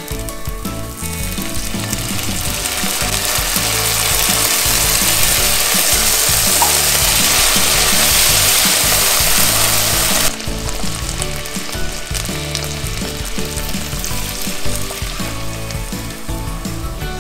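Canned fried sardines and their sauce sizzling in a hot enamelled pot as they are stirred, the sizzle building from about a second in and cutting off suddenly about ten seconds in. Background music runs underneath.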